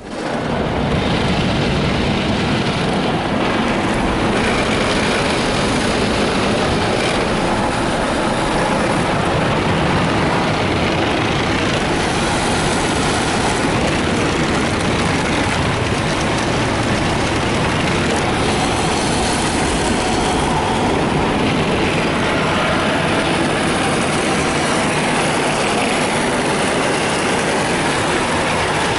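Mark VII ChoiceWash XT car wash's spinning cloth brushes and water spray working over the truck during a slow brush pass, heard from inside the cab. The loud, steady wash noise comes on suddenly at the start and holds level throughout.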